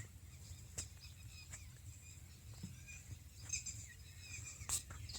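Faint outdoor birdsong: scattered short chirps and sharp calls from small birds, over a low steady rumble.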